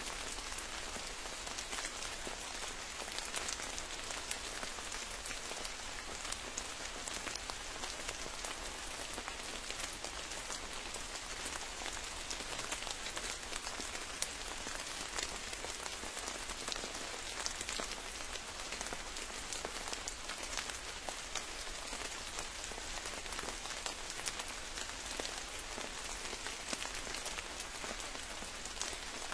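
Steady forest rain: an even hiss of rainfall with many sharp individual drop hits scattered through it.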